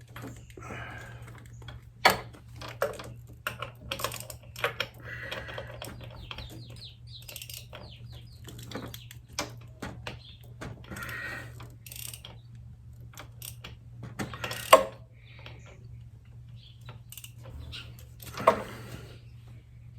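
Irregular metallic clicks and taps of hand tools and feeler gauges being worked around the motorcycle's valve train, with a quick run of ticks partway through and a few louder knocks.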